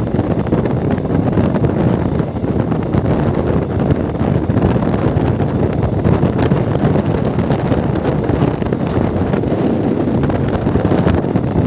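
Wind buffeting the microphone over the steady running noise of an express passenger train moving at speed.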